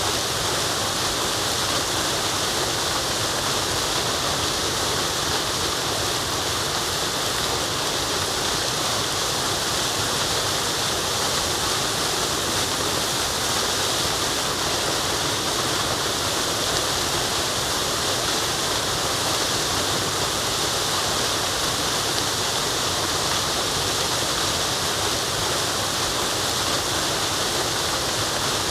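Waterfall: a steady, unbroken rush of falling water, brightest in its high hiss.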